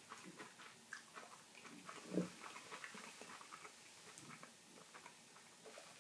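Person chewing a mouthful of motsu nabe (offal hotpot), with many small wet mouth clicks and one short, louder throaty sound about two seconds in.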